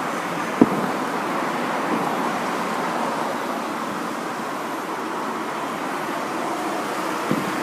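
Two sudden firework bursts, a sharp bang about half a second in and a weaker one near the end, over a steady rushing background noise.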